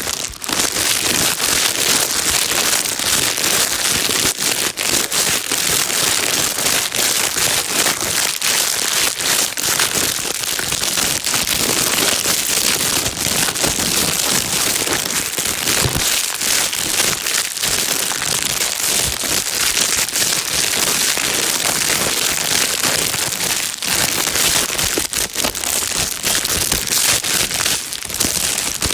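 Plastic bag being crinkled and rustled continuously: a dense, steady crackling with many tiny clicks, used as white noise for calming a baby.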